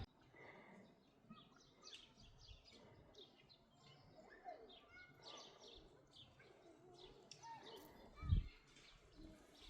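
Faint birdsong: many short, high chirps and a few slurred whistled notes from several birds, with one brief low thump at about eight seconds.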